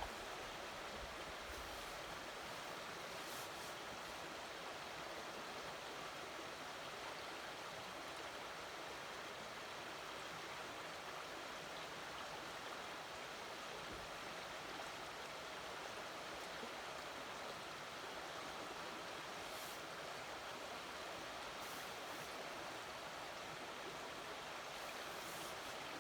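Steady rushing of a high, fast-flowing river.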